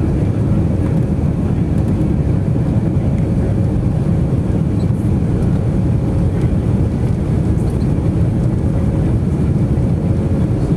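Steady, loud cabin noise inside an Airbus A319 airliner: a low engine and airflow rumble with a faint steady hum above it.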